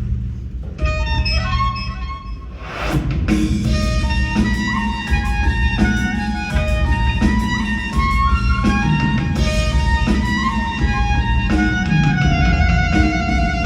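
Live winds-and-percussion ensemble playing: quick pitched keyboard-percussion notes over low held wind chords and drum strokes, building to a loud hit about three seconds in.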